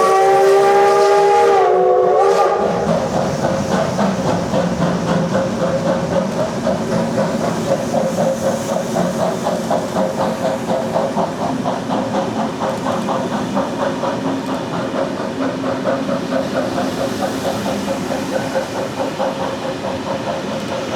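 Steam locomotive whistle sounding a chord of several tones, which stops about two and a half seconds in. The train then runs on with an even, rapid rhythmic beat and hiss that slowly fades.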